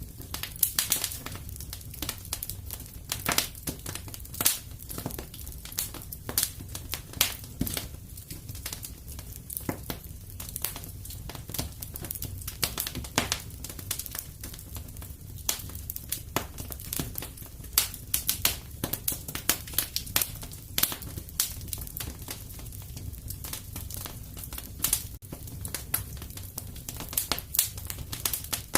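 Fire crackling in a fireplace: a dense, irregular run of sharp pops and snaps over a steady low rumble.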